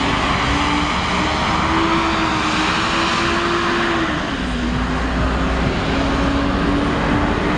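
Volvo B7LA articulated bus's diesel engine pulling away, with its cooling fan giving off a loud, vacuum-cleaner-like 'hoover' whine. The whine climbs in pitch, drops about four seconds in, then climbs again.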